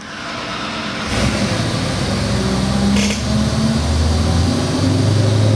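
Gen III 392 cubic-inch Hemi V8 running on an engine dyno. It comes in strongly about a second in and grows louder, its engine speed shifting in steps, with a brief hiss-like flare near the middle.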